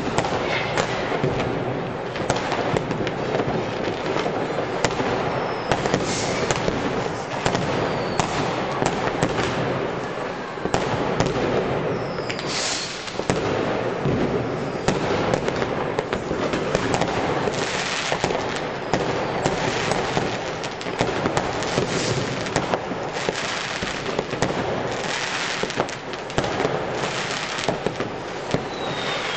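New Year's Eve fireworks going off all over the city: rockets and firecrackers bursting in a dense, unbroken barrage of bangs and crackles, with a few short whistles from rockets among them.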